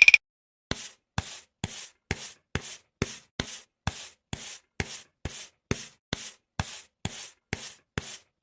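Regular short scraping or rubbing strokes, about two a second, each a brief rasp with silence between them.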